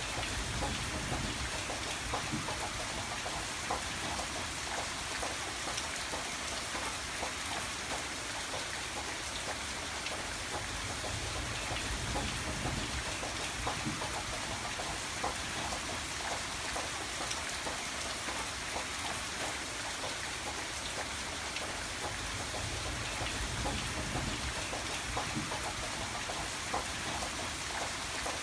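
Steady rain falling: a dense, even hiss with many small drop ticks over a soft low rumble that swells and eases slowly.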